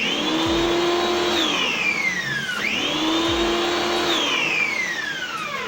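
Tecna electric pressure washer motor spinning up with a rising whine, running for about a second and a half, then winding down with a falling whine, twice in a row, as the trigger is pulled and released.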